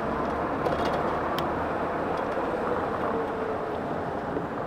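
Steady wind rush and road noise from riding an electric bike at speed through city traffic.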